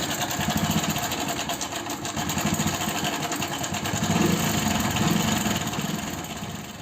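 Hero Passion Pro's single-cylinder engine running with a rapid, even rattle, fading near the end: the excessive engine noise of a very loose timing chain.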